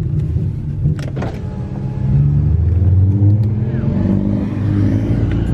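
A car engine running and accelerating, its pitch rising and dropping in steps several times, with two sharp clicks about a second in.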